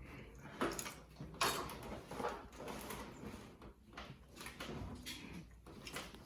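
Several knocks and scrapes of tools and parts being handled during hand work on a car's engine bay, the loudest knock about a second and a half in.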